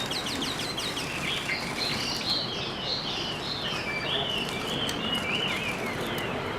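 Small songbird singing: a quick run of short down-slurred notes opens, then a warbling string of varied chirps, over a steady background hiss.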